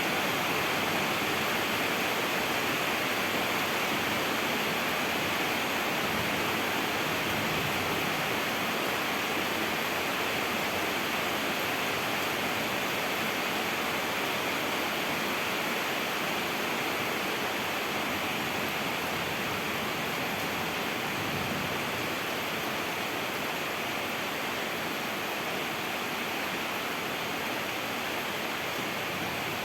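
Rain falling steadily, an even hiss with no separate drops or breaks.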